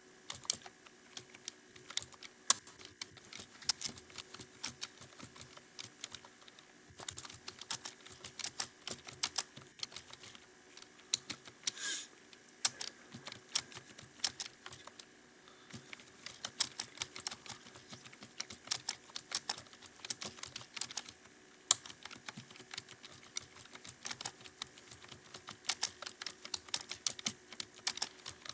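Fast, steady typing on a computer keyboard, with rapid, irregular key clicks during a timed typing-speed test. One louder, longer clack comes about twelve seconds in.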